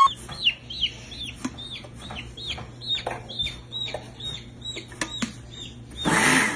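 A baby chick peeping: short, high calls that slide downward, about three a second. A brief loud burst of noise near the end is the loudest sound.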